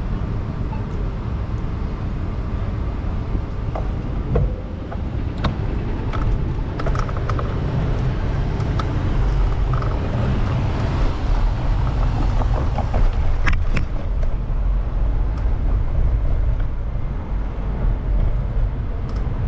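Street traffic and road noise heard while riding a bicycle through a city: a steady low rumble throughout, with a few sharp clicks, two of them about five and a half and thirteen and a half seconds in.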